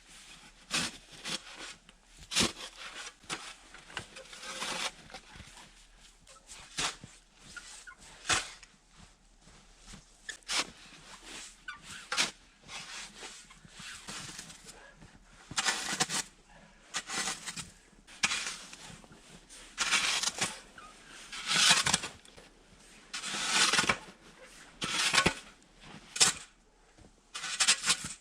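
Snow being cleared by hand: crunching, scraping strokes that come about every second and a half in the second half, with scattered sharp knocks earlier on.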